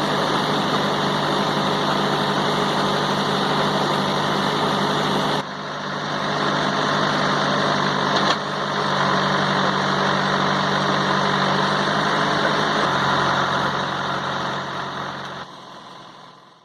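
Tractor engine running steadily at low speed, with an abrupt change in its sound about five seconds in. It fades out at the end.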